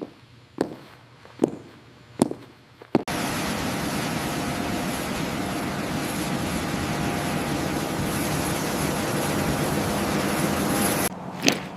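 A few footsteps or knocks on a hard floor, then about three seconds in a loud, steady aircraft engine drone starts suddenly and cuts off abruptly near the end.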